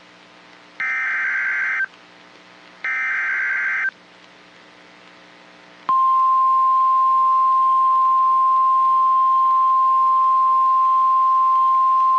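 NOAA Weather Radio Emergency Alert System signal: two roughly one-second bursts of screechy SAME digital header data, a pause, then the steady 1050 Hz warning alarm tone, which starts about six seconds in. Together they mark the start of an automated severe thunderstorm warning.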